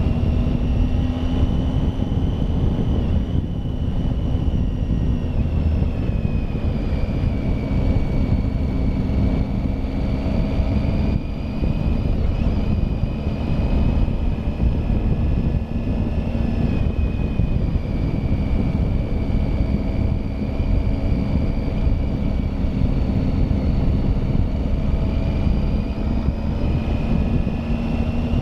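Triumph Tiger motorcycle engine running under way, its pitch slowly rising and falling as engine speed changes, over a steady rush of wind and road noise.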